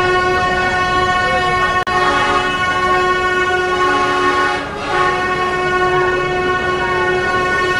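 A diesel train gives a loud, steady, buzzy horn-like drone that holds one pitch. It breaks off for an instant just before two seconds in, and a second, lower tone joins it for a couple of seconds in the middle.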